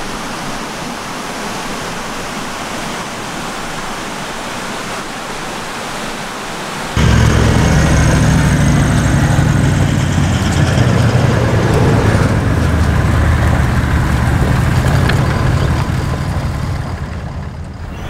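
A steady outdoor hiss. About seven seconds in, it cuts abruptly to a four-wheel-drive ute's engine running close by, loud and low and steady, easing off a little near the end as the vehicle moves away.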